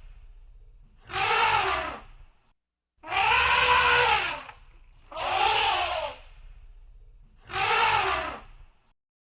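Elephant trumpeting: four harsh, brassy calls, each about a second long, with the pitch rising and then falling within each call.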